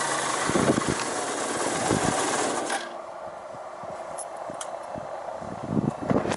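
Suzuki RG125 Gamma's 125 cc single-cylinder two-stroke engine running through a Sugaya expansion chamber, loud and raspy. Its sound drops sharply about three seconds in, leaving a quieter, uneven low beat with scattered knocks.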